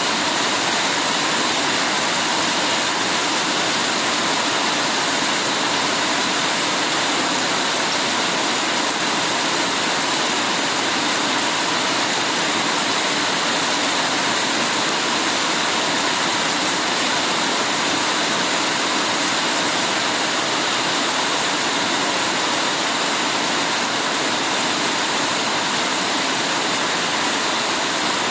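Heavy rain falling steadily, an even unbroken hiss with no separate drops or gusts standing out.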